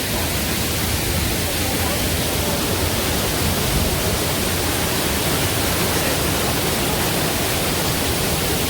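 Waterfall rushing steadily, with wind fluttering on the microphone.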